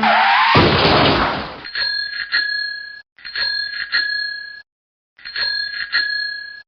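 A loud whoosh, then a bell rung three times, each ring a quick double ding with a lingering tone, with dead silence between the rings.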